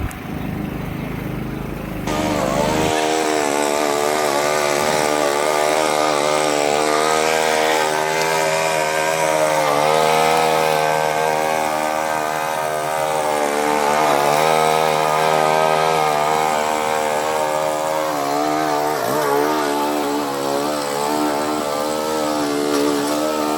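99cc petrol rotary lawnmower engine running while mowing, its pitch wavering up and down with the load. The sound changes about two seconds in and becomes louder and clearer.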